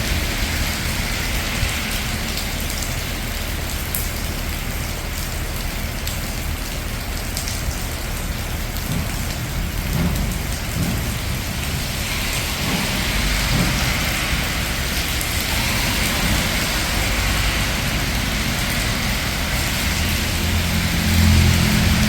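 Steady rain falling on a city street, an even hiss, with a low rumble of traffic underneath that grows in the second half and is loudest near the end.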